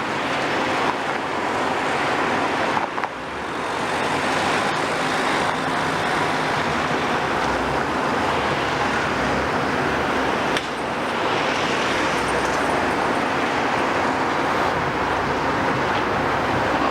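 Heavy demolition machinery running steadily, a loud continuous mechanical noise, with a single sharp knock about ten seconds in.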